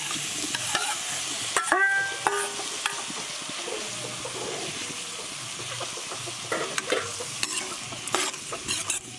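Snail meat sizzling in hot oil with onions, ginger and garlic, stirred with a steel ladle that scrapes and knocks against the pan in short strokes over a steady sizzle.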